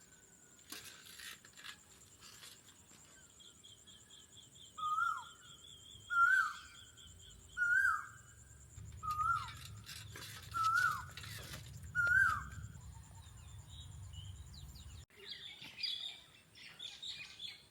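A bird gives a short, loud, falling call six times, about one every second and a half, over a steady high-pitched buzz and other softer bird chirps and trills.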